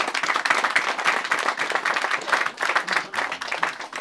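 Audience applauding: dense clapping from many hands, beginning to thin out near the end.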